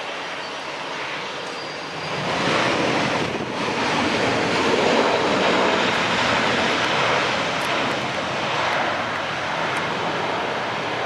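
Airbus A321-211 jet airliner's CFM56 turbofan engines, a loud, steady roar that swells about two seconds in and holds.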